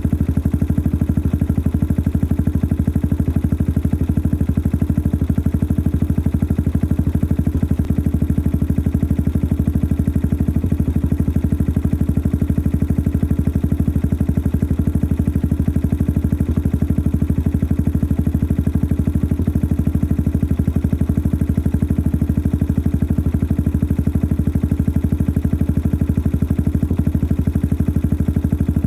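Yamaha XT 600 (43F) single-cylinder four-stroke engine idling steadily through its modified stock exhaust, a fast, even run of exhaust pulses. The engine itself is noisy.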